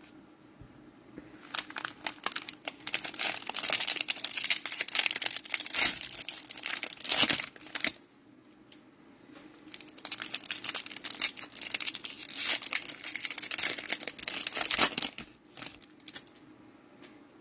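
Cellophane wrappers of Mosaic football cello packs being torn open and crinkled, a dense crackling in two long stretches with a short lull between.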